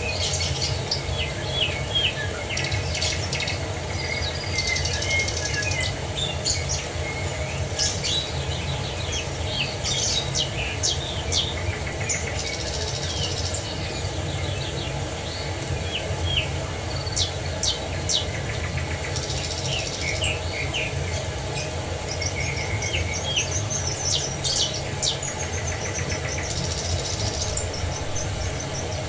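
Several songbirds chirping and trilling, their calls overlapping, over a steady rush of falling water.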